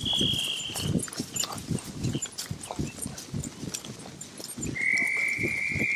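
Horse hooves thudding at a walk, with long, steady dog-training whistle blasts: one ends about a second in and a lower one starts near the end.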